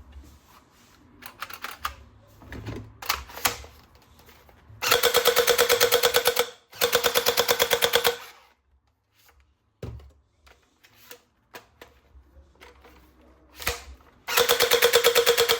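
Toy gun's machine-gun firing sound, a rapid rattle of shots in three bursts of about a second and a half each, the last starting near the end. Lighter clicks and handling noises come before the first burst.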